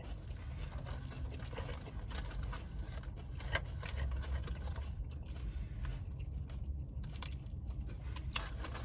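Close-up chewing and biting on french fries, with small irregular crunches and scrapes, over a low steady rumble.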